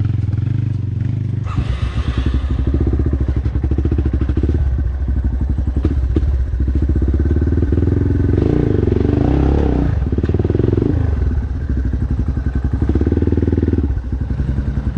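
Dirt bike engine running while riding off-road, its pitch rising and falling with the throttle, with some clattering.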